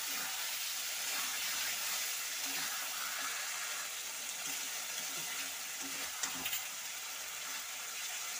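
Potatoes, tomato and spice paste sizzling in hot oil in a metal kadai while a metal spatula stirs them, the masala being sautéed down; a steady hiss with a few sharp scrapes of the spatula against the pan about six seconds in.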